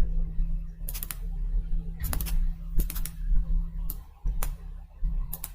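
Scattered computer keyboard clicks, single and in quick pairs, about seven or eight in all, over a steady low hum.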